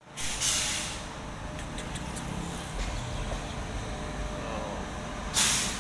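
Indian Railways electric locomotive hauling passenger coaches as it comes into the station: a steady low rumble, with two short bursts of hissing noise, one just after the start and one near the end.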